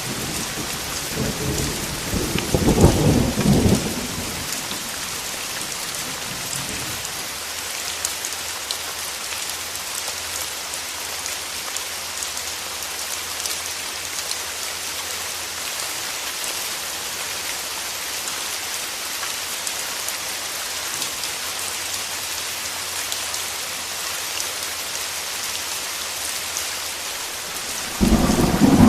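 Steady heavy rain hissing, with a loud rumble of thunder in the first few seconds that trails away, and another thunder rumble starting near the end.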